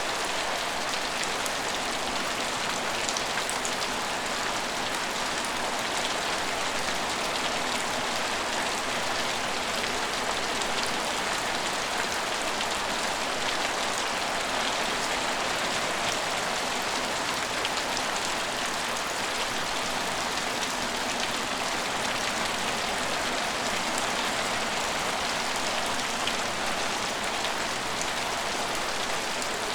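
Steady rain falling at a station: an even hiss of rain with scattered sharper drop ticks.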